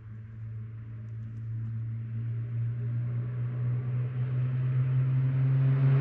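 A Ford with a loud modified exhaust approaching, its low engine drone growing steadily louder and rising slightly in pitch toward the end.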